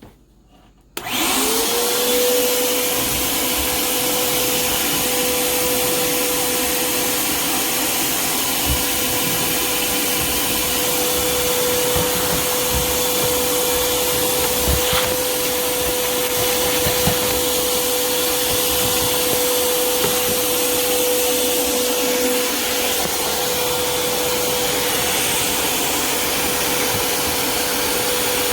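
Shop vac switched on about a second in, its motor spinning up to a steady whine and running steadily while vacuuming out a dryer vent duct, with an occasional faint knock.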